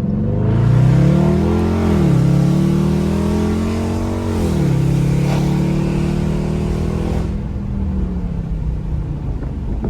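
Car engine and newly fitted Hellcat exhaust heard from inside the cabin in default exhaust mode, accelerating. The pitch rises, drops at an upshift about two seconds in, rises again, drops at a second upshift about four and a half seconds in, then holds nearly steady while cruising.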